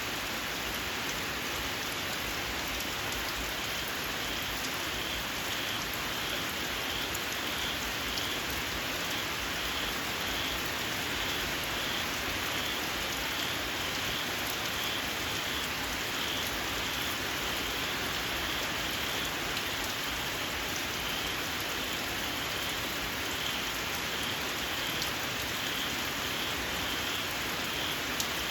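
Steady rain falling, with a small frog calling over it: short, high squeaks repeated about twice a second.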